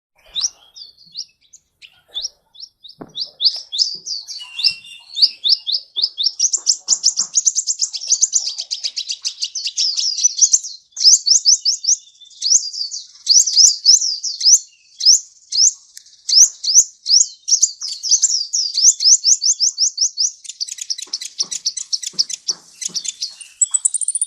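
Song of a sunbird (the bird Indonesian bird-keepers call 'kolibri'): a long, rapid run of high, sharply down-slurred notes that starts about half a second in and thickens into dense, fast trills.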